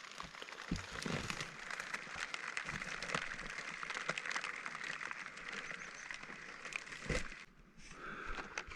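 Rain falling, a steady hiss full of small drop clicks; it cuts off abruptly about seven seconds in.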